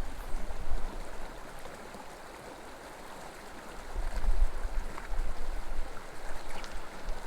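Small mountain creek rushing steadily over rocks, with gusts of wind buffeting the microphone as a low rumble at the start and again around four seconds in.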